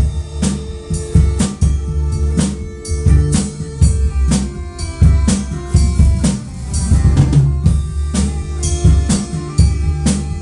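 Music led by a drum kit playing a steady beat, bass drum and snare hits about twice a second, over sustained pitched instruments.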